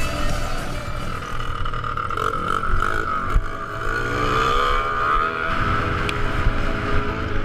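A small motor vehicle's engine running, its pitch rising and falling, with wind rumble on the microphone.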